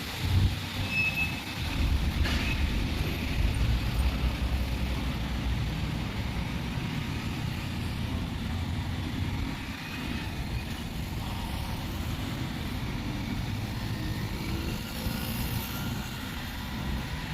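Steady low mechanical rumble, with a brief faint tick about two seconds in.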